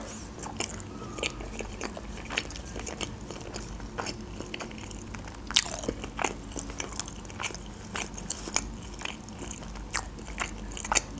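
A person chewing a mouthful of sushi roll, with many small sharp mouth clicks and crunches and a louder one about five and a half seconds in.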